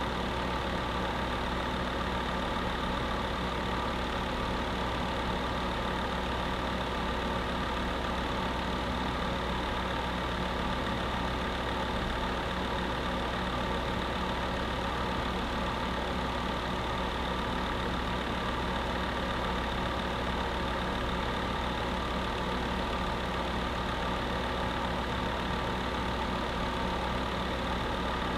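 A space heater running steadily: an even whir of air with a low hum and a few steady tones in it, unchanging throughout.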